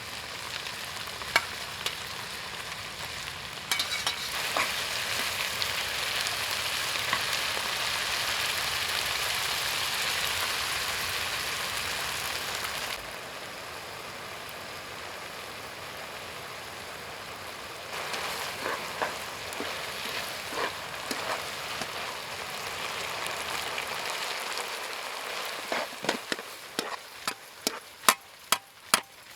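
Food frying in a pan with a steady sizzle, with the clicks of a utensil stirring. Near the end comes a run of sharp knocks that come faster and faster.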